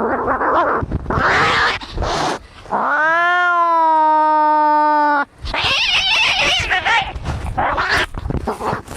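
Cats fighting: harsh, rough screeches, broken by one long, steady yowl that starts about three seconds in and lasts about two and a half seconds before the screeching resumes.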